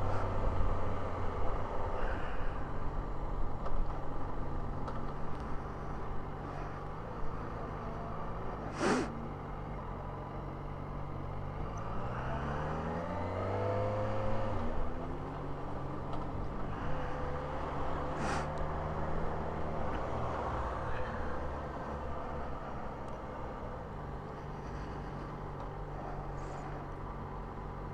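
Yamaha XJ6N motorcycle's inline-four engine running steadily under way, its revs climbing once about halfway through as it accelerates. Two brief sharp knocks are heard, one about a third of the way in and one about two thirds in.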